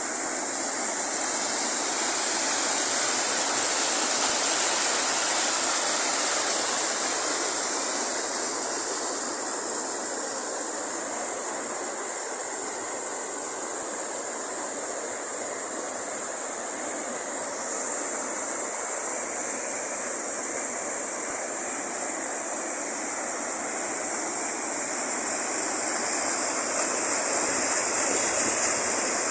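Waterfall: a steady rush of falling water, swelling and easing slightly in loudness.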